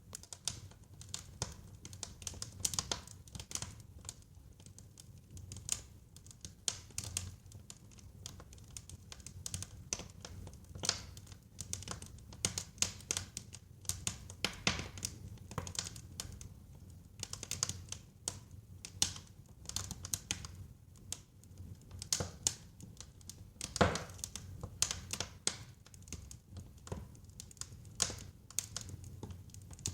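Wood fire crackling in a fireplace: a steady stream of irregular sharp crackles and pops over a low rumble of flame, with one louder pop a little before the end.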